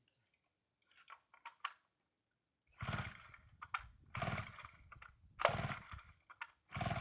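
Chainsaw being pull-started: four quick pulls on the starter cord, about a second and a half apart, each cranking the two-stroke engine briefly without it catching, after a few light clicks.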